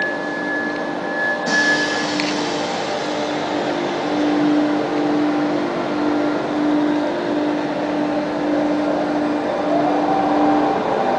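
Regional multiple-unit train at the platform, running with a steady, slightly pulsing hum. Near the end a rising whine comes in as it starts to move off.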